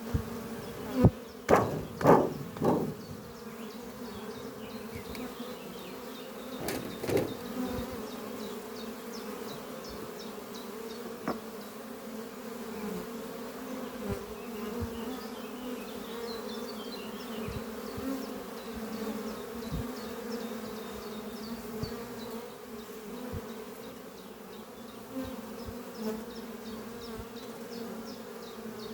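A honeybee colony humming steadily at the hive entrance, a low drone. Bees buzz loudly close past the microphone in a quick run of passes about two seconds in, and again around seven seconds in.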